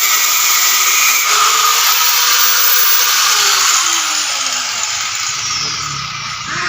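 Power cutting tool slicing through a steel reinforcing bar: a loud, continuous grinding noise whose tone sinks in pitch over the middle seconds.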